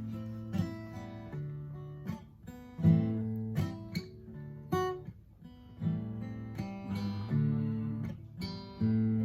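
Acoustic guitar strummed and picked through an instrumental passage of a song, each chord ringing and fading before the next, with brief near-gaps between phrases.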